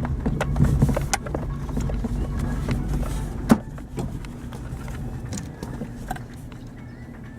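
Daihatsu Terios engine running on rough ground, with scattered knocks and rattles from the vehicle over the terrain. One loud knock comes about three and a half seconds in, and the engine grows quieter toward the end.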